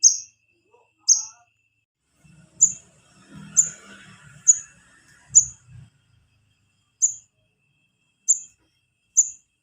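Calls of a young wiceh (korlap), used as a lure to call in the parent birds. They are short, sharp, high chirps, repeated about once a second, nine in all.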